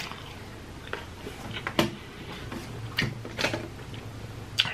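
Close-miked chewing of a mouthful of burger: scattered wet mouth clicks and lip smacks at irregular intervals, over a quiet room background.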